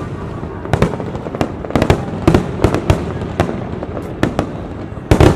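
Aerial fireworks display: a rapid, irregular string of shell bursts over a constant crackling rumble, with a cluster of the loudest bangs near the end.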